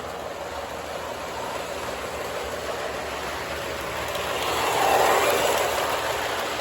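O gauge model train, a Santa Fe RS diesel locomotive, rolling along the track with a steady rumble of wheels on rail, getting louder to a peak about five seconds in as it passes close, then easing off.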